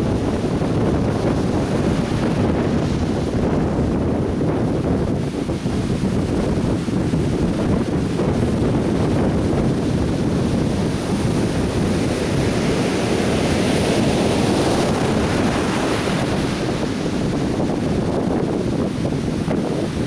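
Atlantic Ocean surf breaking and washing up a sandy beach in a continuous roar, with a brighter hiss of wash swelling about halfway through. Wind buffets the microphone.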